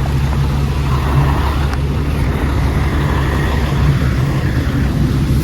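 Truck engine running with a steady, loud low drone.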